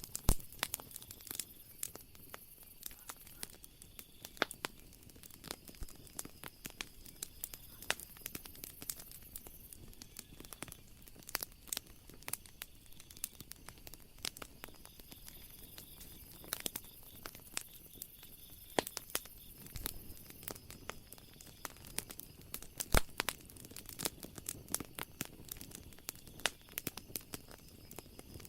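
Wood fire crackling and popping, with dense irregular snaps and a few louder pops near the start and about two-thirds of the way through.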